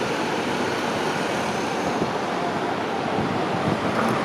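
Steady city road traffic: cars running through a busy intersection, a continuous even noise without distinct events.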